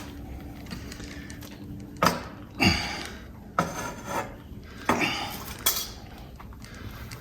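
A series of sharp metallic clanks and clinks, about five in a few seconds, each with a short ring, from tools and metal parts of a Buell Blast motorcycle being levered to free a stuck part.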